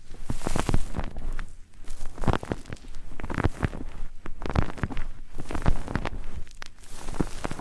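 Close-miked ASMR trigger sounds: irregular sharp taps and clicks mixed with rustling, several per second.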